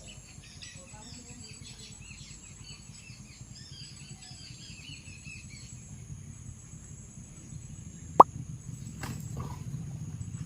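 Small birds chirping in quick runs of short, high, falling notes through the first half. Later comes a single sharp pop, the loudest sound, over a low rumble that grows louder near the end.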